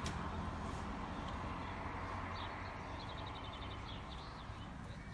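Small birds chirping, with a quick run of high chirps about three seconds in, over a steady background noise with a low hum.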